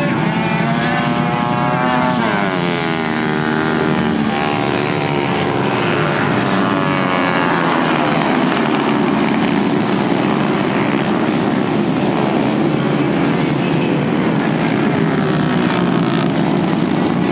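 Several 110 cc racing motorcycles running at high revs, their engines merging into a steady drone. About two seconds in, one passes close and its pitch falls away.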